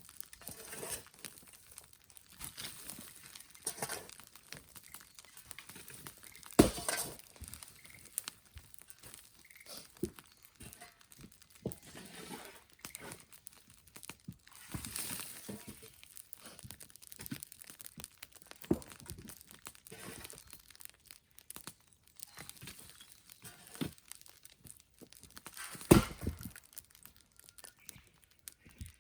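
Wood fire crackling with scattered small snaps, and two sharp pops, one about a quarter of the way in and one near the end.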